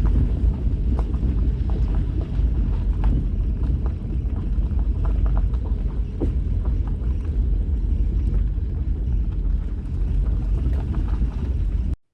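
Vehicle driving slowly up a rough, rutted dirt road: a steady low rumble of engine and tyres with scattered small knocks and rattles. It cuts off suddenly near the end.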